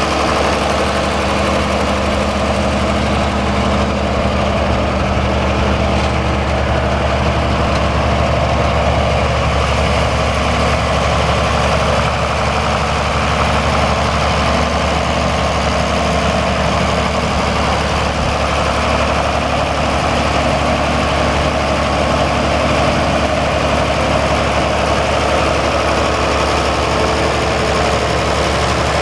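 1968 J.I. Case 930 tractor's six-cylinder engine idling steadily, with no change in speed.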